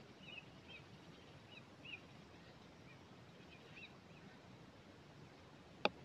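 Faint, quick high chirps of a bird, scattered over the first few seconds above a low steady hiss, with a single sharp click just before the end.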